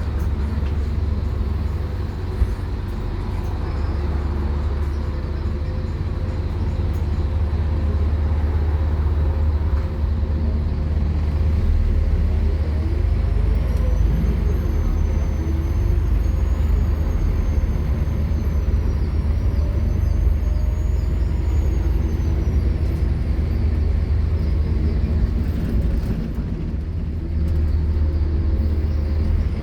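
Scania K230UB Omnilink bus's five-cylinder diesel engine running hard, a deep steady rumble under a constant drone. A high whine rises and falls through the middle, and the engine note drops back briefly a couple of seconds in and again near the end.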